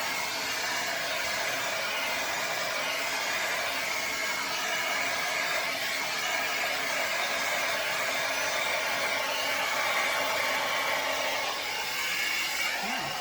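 Hair dryer running steadily, blowing air.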